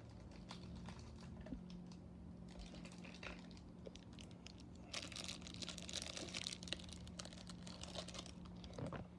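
Plastic packaging being handled: scattered light clicks and taps, then about three seconds of crinkling starting about five seconds in, over a faint steady hum.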